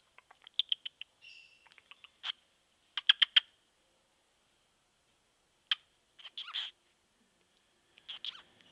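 Cockatiel making short sharp clicks and chirps in irregular clusters of three or four, with a brief squeaky note about a second in.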